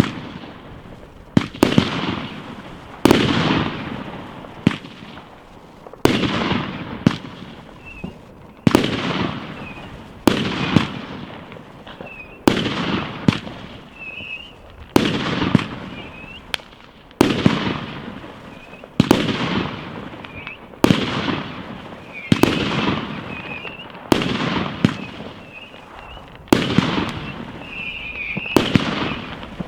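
Fireworks going off one after another: sharp bangs about every one to two seconds, each trailing off in a rolling echo, with some faint crackling in between.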